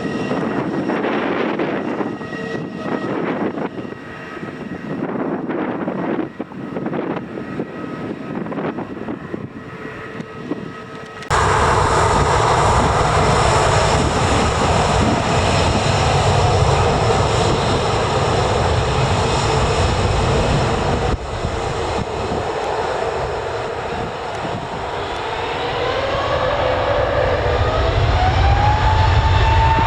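Aircraft engines running: a fainter, uneven sound at first, then a sudden change about eleven seconds in to a louder, steady roar with a deep rumble. Near the end a whine rises in pitch as the engines spool up.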